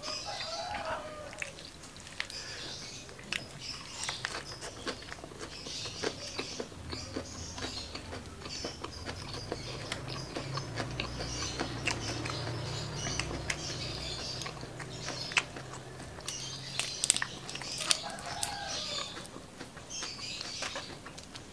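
Close-miked chewing of crunchy curly lettuce and sambal, with wet mouth clicks and crackles every second or two. A rooster crows in the background twice, near the start and again near the end.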